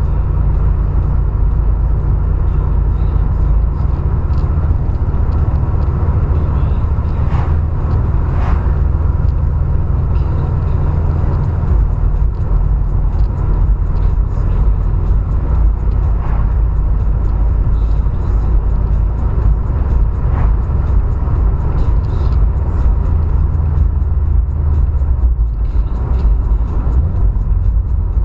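A steady low car rumble with a few faint brief sounds over it.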